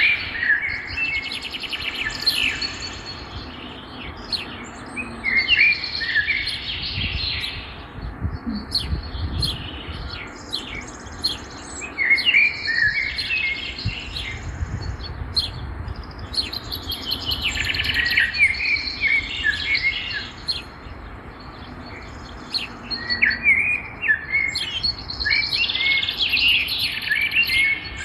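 A songbird singing: repeated phrases of quick chirps and trills, each two to three seconds long, coming about every six seconds.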